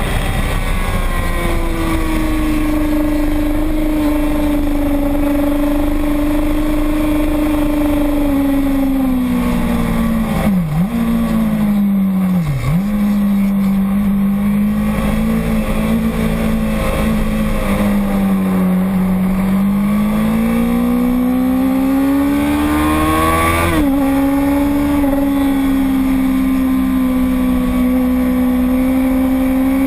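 Motorcycle engine running hard on a race track. Its pitch dips sharply twice near the middle, then climbs steadily and drops suddenly at a gear change about 24 seconds in, before holding steady.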